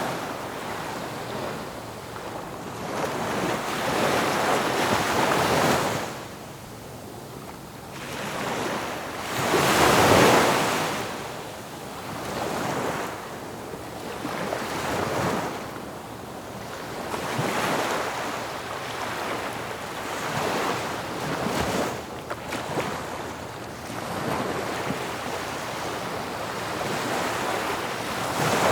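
Ocean waves breaking and washing ashore in repeated surges that swell and fade every few seconds. The biggest wave comes about a third of the way in.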